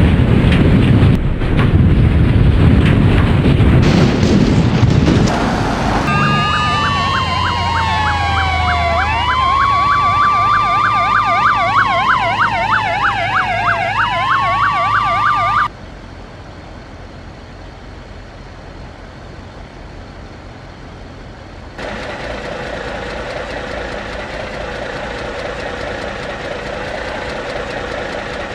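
Emergency vehicle sirens, several at once, wailing and yelping in overlapping sweeps for about ten seconds after a stretch of loud noise with knocks. The sirens cut off abruptly, leaving quieter noise, and then a steady engine-like hum holding one tone.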